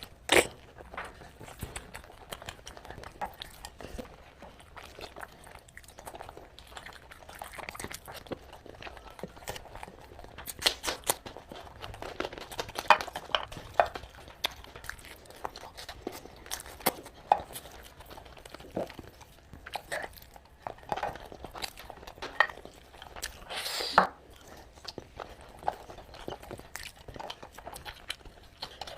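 Close-up eating sounds: a person chewing, with scattered short clicks and taps from mouth and dishes. There is a short hiss about three quarters of the way through.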